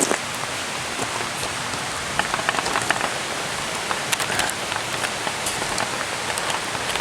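Steady rushing outdoor noise, with a cluster of light clicks about two to three seconds in and a few more around four seconds.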